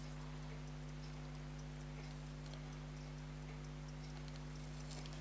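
Steady low electrical mains hum, with a couple of faint small clicks of tweezers or tools on the watch parts near the end.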